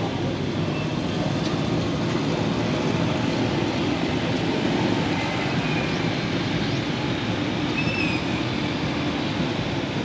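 A steady low rumble of noise, with a few faint short bird chirps over it, the clearest about eight seconds in.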